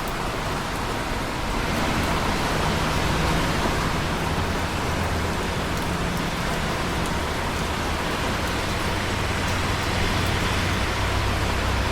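Steady rain falling, a continuous even hiss of drops. It grows slightly louder about two seconds in, with a low rumble underneath.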